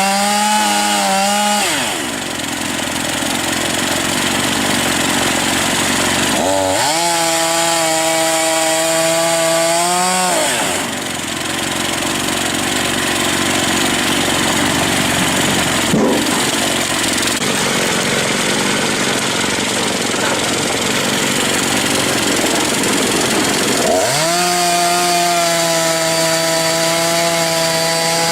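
Chainsaw running at high revs, then dropping in pitch as it bites into wood and cuts with a dense rasping noise. It does this in three cycles: a cut of about four seconds, a long cut of about thirteen seconds, then revving again near the end.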